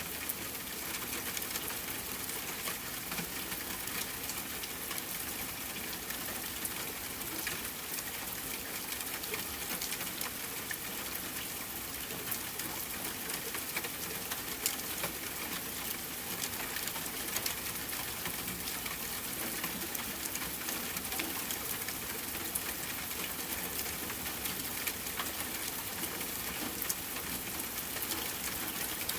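Soft steady rain falling against a window pane, a continuous hiss with scattered small ticks of individual drops.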